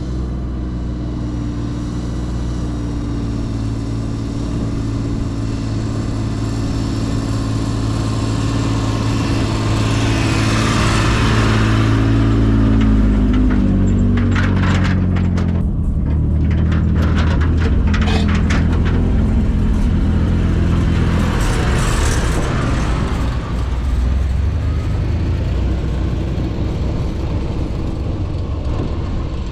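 1990 Dodge Power Ram pickup's engine running while the truck is driven, its pitch stepping down and up as it changes speed. A run of clicks and knocks comes about halfway through, with two spells of hiss on either side of it.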